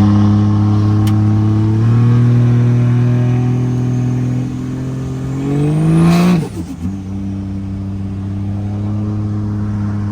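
Car engine running while driving, its pitch climbing for about two seconds as it accelerates, then dropping sharply about six seconds in and settling into a steady, lower drone.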